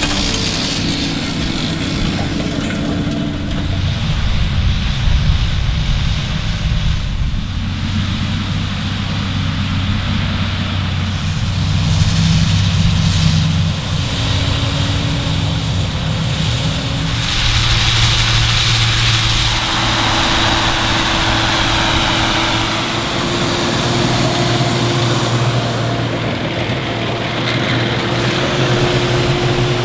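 Heavy diesel engines of farm machinery working under load: steady engine drone with fan and mechanical noise. The engine note changes abruptly a couple of times.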